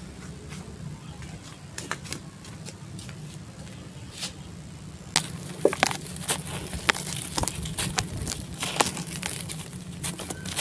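Dried sand-cement crumbling and breaking up in water: scattered sharp cracks and pops at first, turning into dense crackling with a fizzing hiss about five seconds in.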